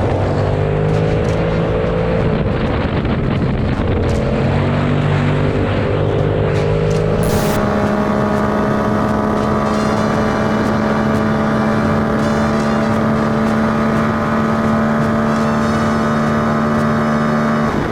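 A vehicle engine running, its pitch dipping and rising over the first few seconds, with a brief burst of noise about seven seconds in, then holding a steady pitch.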